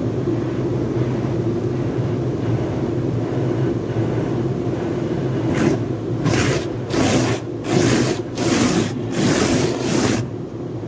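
Car wash tunnel equipment running with a steady motor hum. About halfway through, a run of five or six hissing pulses, a little more than one a second, comes in and then stops abruptly near the end.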